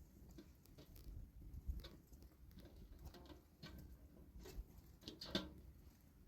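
Quiet, scattered light taps and clicks, with a sharper knock about five seconds in.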